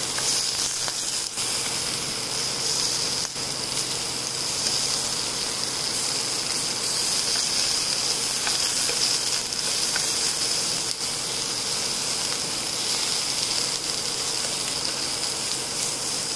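Vegetables sizzling steadily in hot olive oil in a non-stick pan as they grill.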